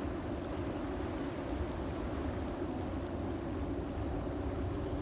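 Steady low rumble of sea ambience, even throughout with no distinct events.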